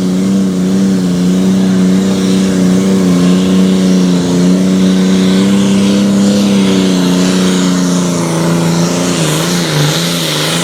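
John Deere 6615 super stock pulling tractor's diesel engine running flat out under load as it drags the weight sled, holding a steady high pitch. Near the end the pitch drops and wavers as the engine bogs down against the sled.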